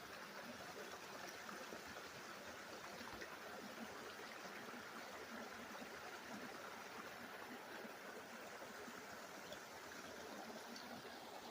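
Faint, steady running water of a small stream or brook.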